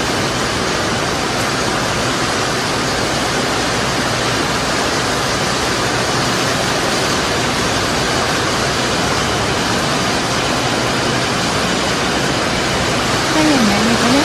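Heavy rain falling in a steady, even hiss. A brief wavering voice-like sound comes near the end.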